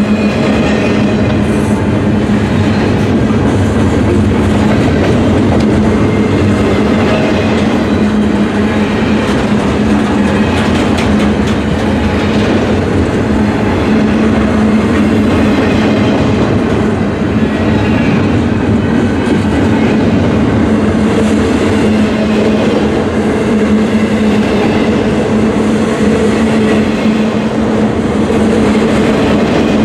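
Double-stack intermodal train's container well cars rolling past at steady speed: a loud, steady rumble of steel wheels on rail with a steady low hum underneath.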